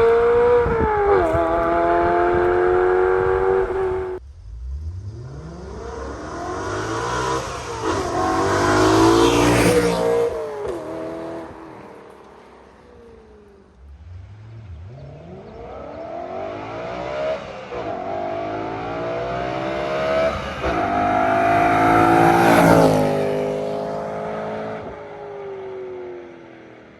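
BMW M3's 4.0-litre S65 V8 through a Corsa cat-back exhaust, accelerating hard past twice: the engine note climbs in rising sweeps, is loudest as the car goes by, then drops in pitch and fades away.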